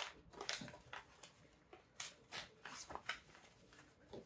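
Packaging being unwrapped by hand from a makeup palette: a run of irregular, quiet crinkly rustles and scrapes.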